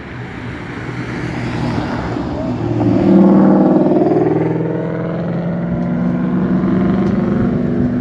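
A motor vehicle's engine running close by, swelling to its loudest about three seconds in and then holding steady.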